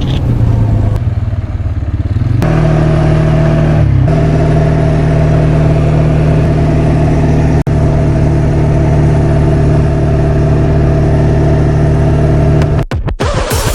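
Quad bike engine running under way, its pitch stepping up twice in the first few seconds and then holding steady; it breaks off near the end.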